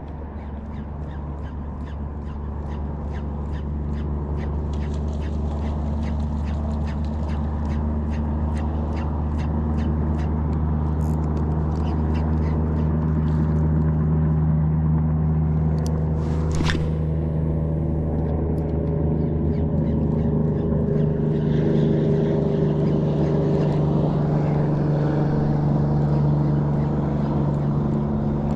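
Steady low hum of the kayak's electric motor running, slowly growing louder. Through the first half a quick run of light clicks sits over it, with one sharp crack a little past halfway.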